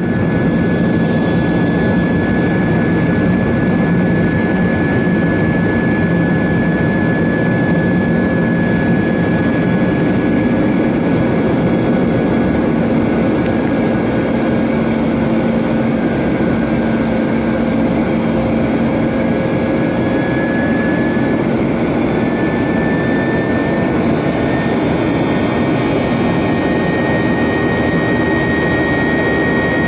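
Steady cabin noise of an airliner in flight: a constant roar of engines and rushing air, with faint steady whining tones over it.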